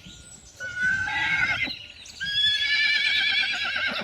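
A horse whinnying twice: a shorter neigh about half a second in, then a longer one with a wavering, quavering pitch from about two seconds in.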